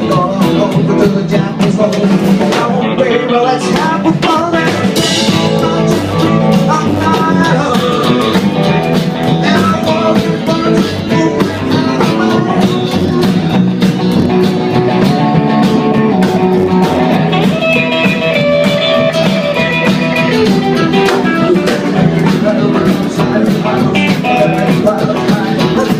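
Live band music: guitar and drum kit playing together in a loud, full mix.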